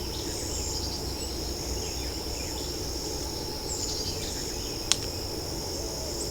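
Steady high-pitched chirring of night insects in a swamp, with one sharp knock about five seconds in.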